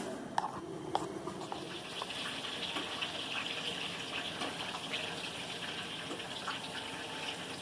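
Steady rush of running water, with two or three light knocks in the first second.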